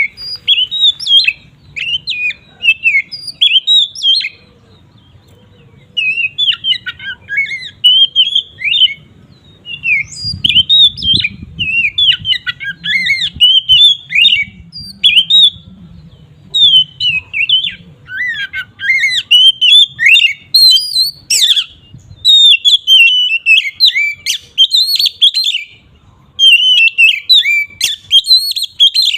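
Oriental magpie-robin (kacer) singing loudly in full song: rapid, varied runs of whistled and scratchy notes in bursts, with brief breaks.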